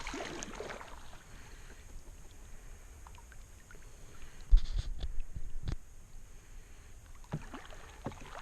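Canoe sounds on the water: faint paddle and water noises, with a low thump about four and a half seconds in and a sharp knock about a second later.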